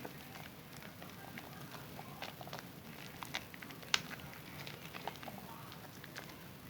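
Zest bar soap being lathered in wet hands: irregular small wet clicks and crackles of suds, with one sharper click about four seconds in.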